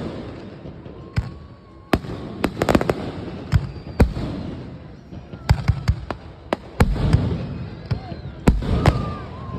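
Aerial fireworks bursting: an irregular series of sharp bangs, some in quick clusters, over a low rolling rumble, coming thicker in the second half.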